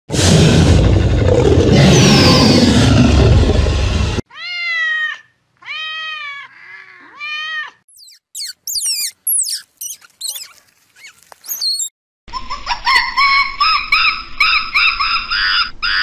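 A run of separate animal calls: a loud, rough dinosaur roar lasting about four seconds, then four arched, wavering calls, then sharp high chirps from a ground squirrel for a few seconds, and near the end fast, high chattering calls from a marmoset.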